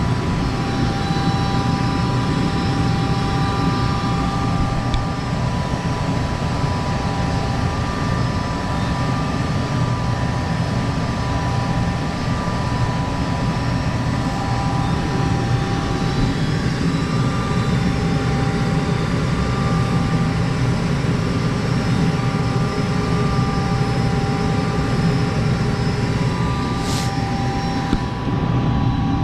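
Gas-fired heating appliance running steadily, a low rumble of burner and blower with a faint motor whine over it, on a gas supply that has water in it.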